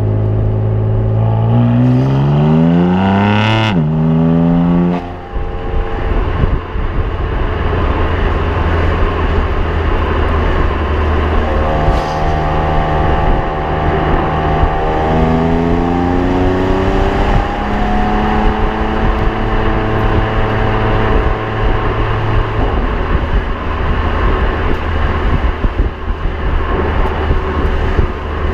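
BMW M4's twin-turbo straight-six engine and exhaust under hard acceleration: the pitch climbs steeply, drops sharply on an upshift about four seconds in and climbs again, then settles into steadier running with another climb midway, over road and wind noise.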